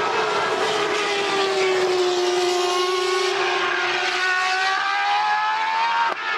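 A 1998 Formula One car's 3.0-litre V10 running at high revs, its note sagging slowly and then climbing again as the revs change. It breaks off abruptly near the end.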